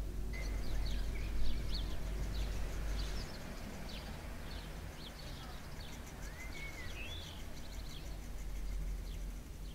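Birds chirping in many short, high calls over a low rumble that drops away about three seconds in.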